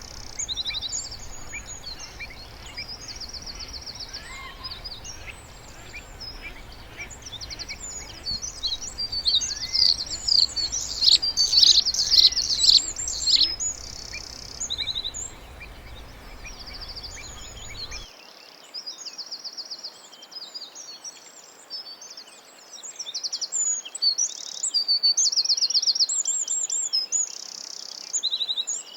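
Several songbirds singing and calling together: quick high chirps mixed with fast buzzy trills, busiest about a third of the way in and again near the end. A low background hum beneath them stops abruptly about two-thirds of the way through.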